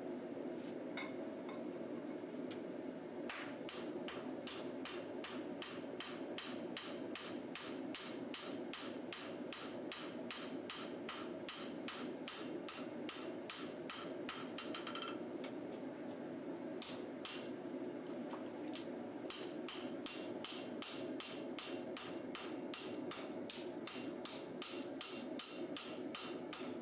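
Hand hammer striking a hot steel katana blade on an anvil to forge the bevels: quick, even blows about two or three a second, each with a bright ring. The blows come in two long runs with a short pause between. A steady rushing noise runs underneath.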